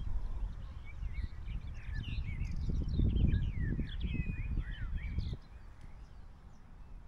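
Songbirds chirping and singing in quick, gliding notes, over a low rumble that cuts off suddenly about five seconds in.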